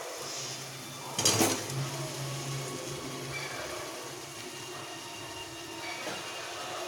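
Fried chicken pieces going into a pan of hot sauce, frying with a steady sizzle, with a clatter against the pan about a second in.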